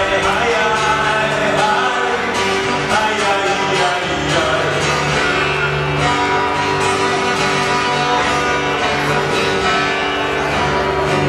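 Song played live: acoustic guitar strumming with singing.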